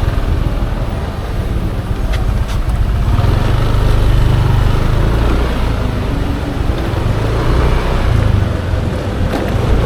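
Yamaha Aerox 155 scooter's single-cylinder engine running on the move, under a steady, heavy low rumble of riding and road noise.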